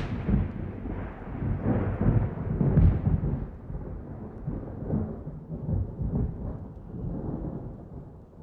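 Thunder rolling and rumbling, deep and uneven, swelling again about two to three seconds in and then slowly dying away.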